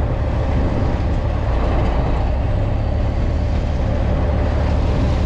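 Fishing boat's engine running steadily: a constant low rumble under a broad, even hiss.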